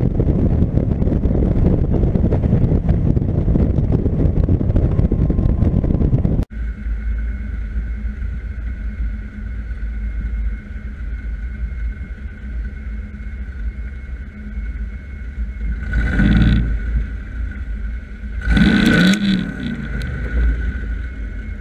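Factory Five Cobra running at speed, heard from its open cockpit as loud engine and wind noise that cuts off abruptly about six seconds in. Then an engine idles with a steady low rumble, with two short louder bursts of engine noise near the end.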